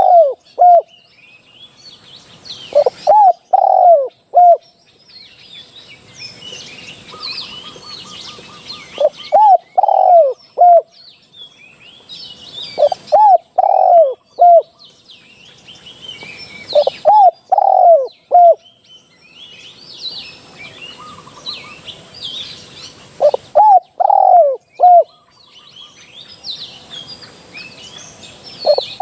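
Spotted dove cooing: a phrase of three or four arched coo notes, repeated every few seconds, about eight times. Small birds chirp faintly in between.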